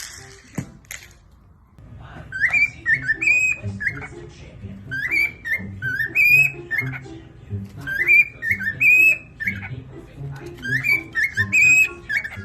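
Cockatiel whistling a short tune of rising and falling notes, repeated about four times, starting about two seconds in.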